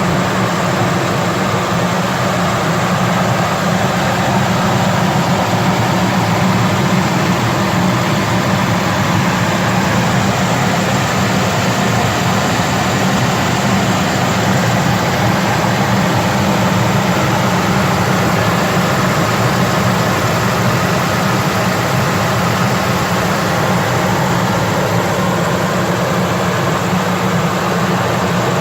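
Ford 4.6-litre V8 engine running steadily, with an even, unchanging low drone and no revving.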